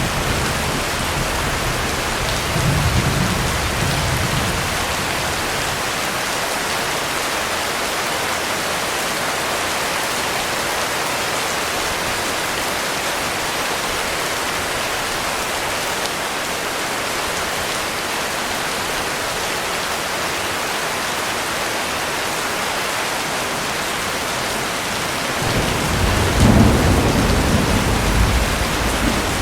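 Heavy rain falling steadily, with a short low rumble of thunder about three seconds in and a longer, louder roll of thunder near the end.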